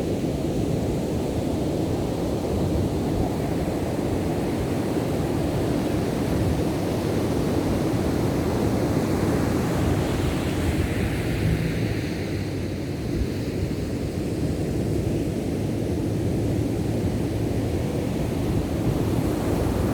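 Ocean surf on the beach, a steady low rumble of waves.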